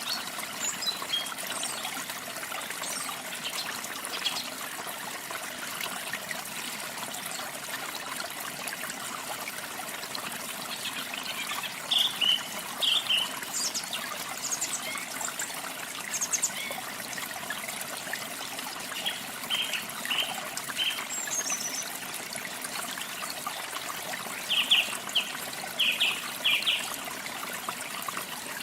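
Steady rush of running water, with a small songbird giving short high chirps in several brief runs. The loudest chirps come about halfway through and again near the end.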